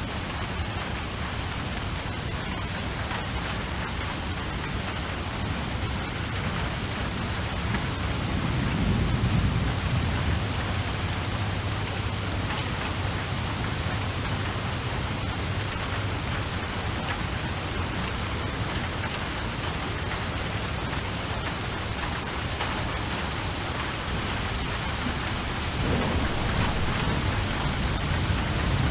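Steady rain falling, with a low roll of thunder about eight seconds in and another starting near the end.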